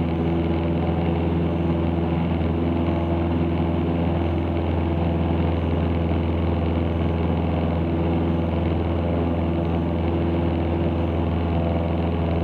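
Cessna 162 Skycatcher's Continental O-200 four-cylinder engine and propeller running steadily at full takeoff power during the takeoff run and initial climb: a constant drone heard from inside the cockpit.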